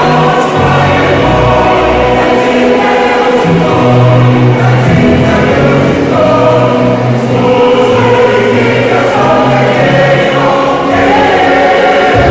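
A choir singing in harmony, several voice parts holding chords over a moving bass line.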